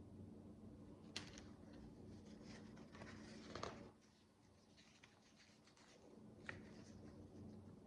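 Faint clicks and rustles of micro bricks (miniature building bricks) being handled and pressed together. There are a few sharper clicks, about a second in, around three and a half seconds in (the loudest) and near six and a half seconds, over a low steady hum.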